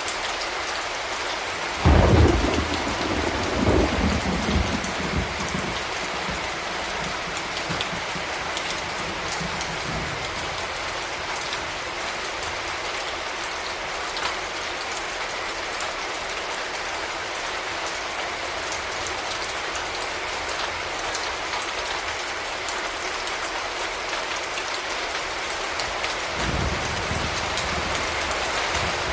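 Steady rain falling on hard urban surfaces, with a sudden clap of thunder about two seconds in that rumbles away over several seconds. Another low roll of thunder starts near the end.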